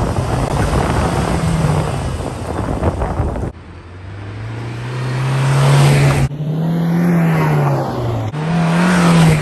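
Convertible sports car's engine accelerating past in a few short cut-together shots: the engine note climbs in pitch and grows louder, then rises and falls as the car goes by.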